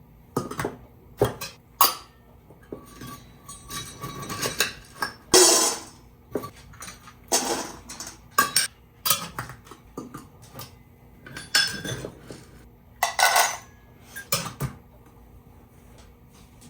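Kitchen clatter of dishes and utensils: bowls, spoons and containers knocked and set down, a string of separate clinks and knocks with a few longer scrapes.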